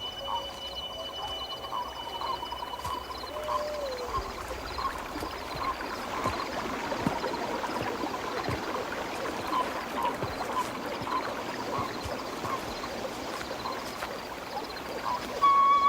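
Nature ambience of running water with short chirps and trills repeating about once a second over it. Music comes in just before the end.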